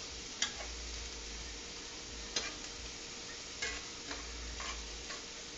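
Food frying in a pan with a steady sizzle, broken by a handful of sharp, irregular clicks from kitchen utensils.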